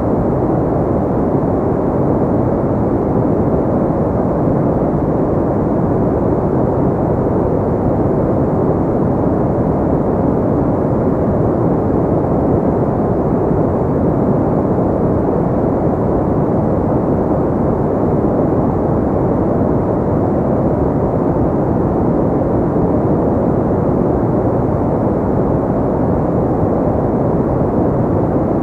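Steady noise track for sleep, deep and even like brown noise, with no tones, changes or separate events; a low hush with nothing of the hiss of true white noise.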